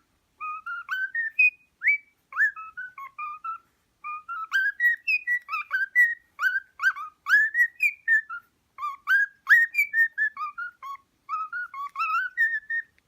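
Cockatiel whistling: a quick, chattering string of short, mostly upward-sweeping whistled chirps, with a brief pause a few seconds in.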